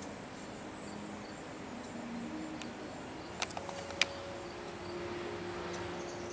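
Steady outdoor background hum with faint high ticks, broken a little past the middle by two sharp clicks about half a second apart, the second louder; a steady tone sets in with the second click and holds to the end.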